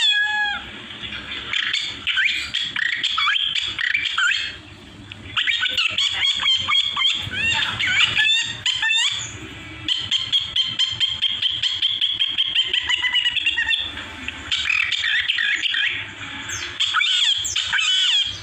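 A man mimicking bird calls with his mouth: a quick string of whistled and squawking notes that glide up and down, with a fast, even trill from about ten to fourteen seconds in.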